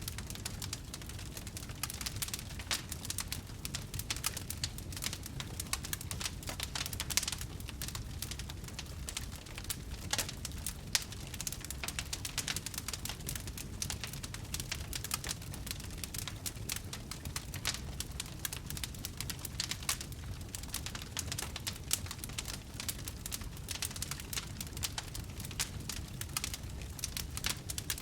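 Wood fire crackling: dense, irregular pops and snaps over a low steady rumble, with a couple of sharper pops partway through.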